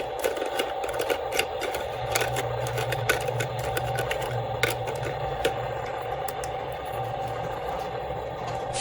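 Small motor running steadily, with scattered light clicks.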